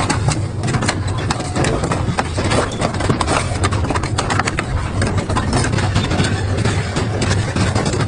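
Double-shaft industrial shredder running under load, its motor a steady low drone, with irregular sharp cracks and crunches as metal and rubber are torn between the shafts.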